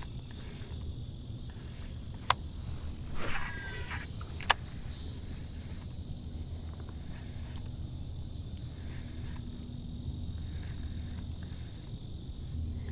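Insects trilling in a steady, high-pitched chorus, with two sharp clicks about two and four and a half seconds in and a brief rustle between them.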